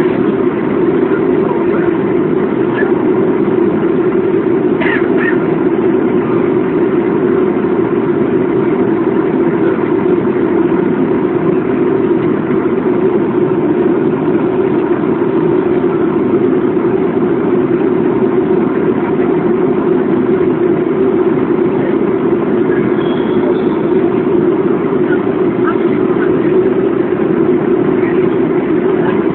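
Steady engine and airflow drone inside a Boeing airliner's cabin, a constant low rumble that does not change.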